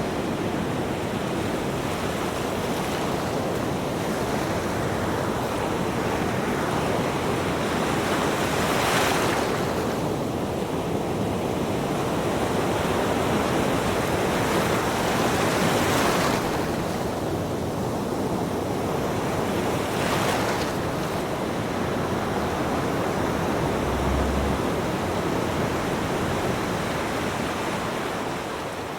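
Ocean waves washing and breaking in a steady rush, with three louder breakers about 9, 16 and 20 seconds in. The sound starts to fade out near the end.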